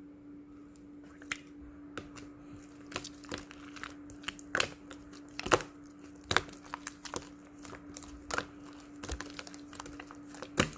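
Homemade slime being squeezed and stretched by hand, crackling with irregular sharp pops and clicks as trapped air bursts, over a low steady hum.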